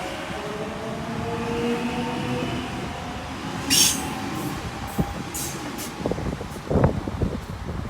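Sydney Trains Waratah A-set electric train pulling out of the station, its traction motors whining in several tones that glide slowly in pitch. There is a short hiss about four seconds in and a few thumps near the end.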